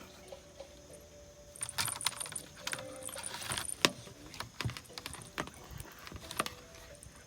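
Scattered light clicks and short rustles of handling noise, with several sharper clicks spread through the middle.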